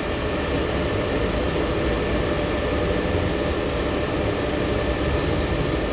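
Steady interior noise of a LiAZ-6213.65 articulated city bus: a low engine drone with an even hum and rumble, heard from inside the passenger cabin.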